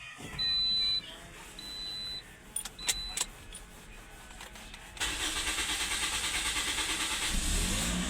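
Toyota Corolla Altis 1.6-litre four-cylinder engine being started after a fuel pump replacement. A few short high beeps come first. About five seconds in, the starter cranks with an even rhythm, and near the end the engine catches and keeps running.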